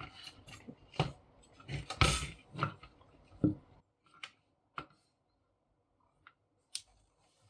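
Hands handling the plastic parts of an opened paper laminator: a run of clicks and knocks, dense for the first few seconds, then a few sparse clicks.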